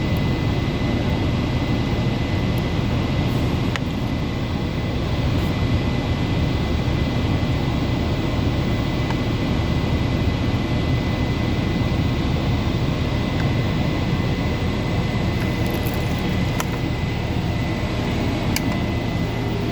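Steady machine drone with a thin, constant high whine and a few faint clicks.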